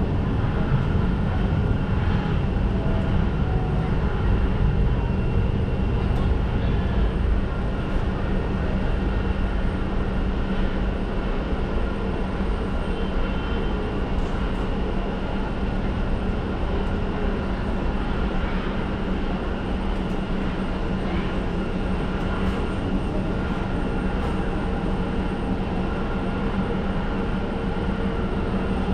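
Airliner engines running: a steady low rumble with several held whining tones, easing off slightly over the first several seconds.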